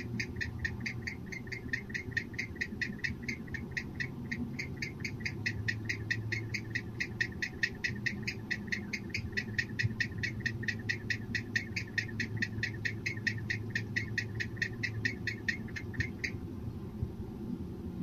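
Barn owl giving a long run of rapid twittering notes, about five or six a second, as in courtship; the calling stops abruptly near the end. A steady low hum runs underneath.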